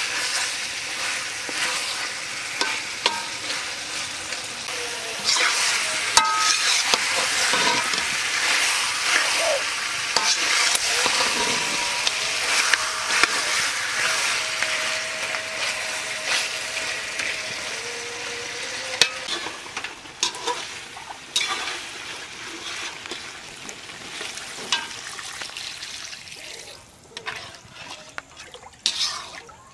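Duck curry sizzling in a frying pan as it is stirred, with repeated scrapes and clacks of a spatula against the pan. The sizzle is quieter in the last third.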